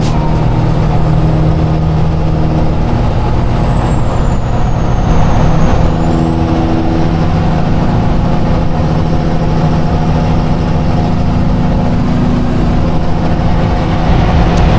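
Tractor-trailer's diesel engine running steadily while the truck is under way, with a faint thin high whistle above it that slowly drifts in pitch.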